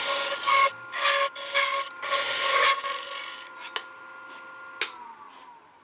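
Wood lathe running with a steady whine while a turning tool cuts the spinning wood blank in repeated scraping strokes. The cutting stops about three and a half seconds in. Near the end a click comes and the lathe's whine falls away as it is switched off and spins down.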